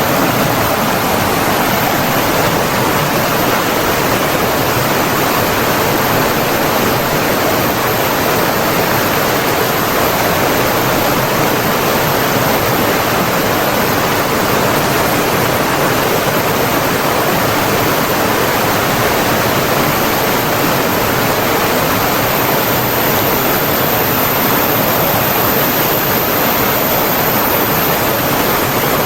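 Running water rushing steadily and evenly, a constant unbroken wash of stream or waterfall sound.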